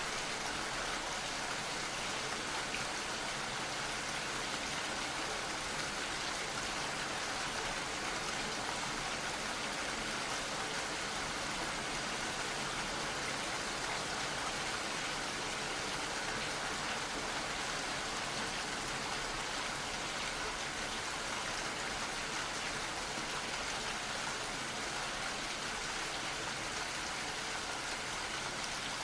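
Gentle, steady rain falling, a constant patter with no change in level.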